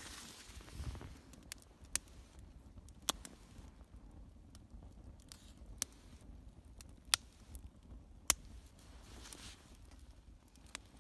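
Small wood fire crackling faintly, with scattered sharp pops every second or two as the wood struggles to catch.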